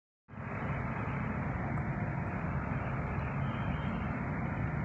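Steady background rumble and hiss that begins a fraction of a second in and holds unchanged.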